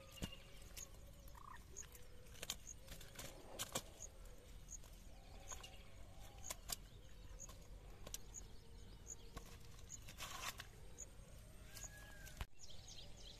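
Faint outdoor ambience: a bird giving short high chirps about once a second, over soft rustling and clicking of a nylon cast net as the fish are worked out of its mesh by hand.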